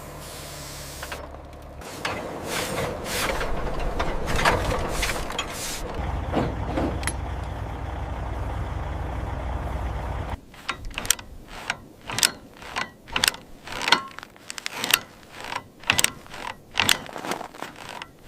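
Chain hoist or lifting chain rattling and ratcheting under load, then a run of separate sharp metal clanks, about one or two a second, in the second half.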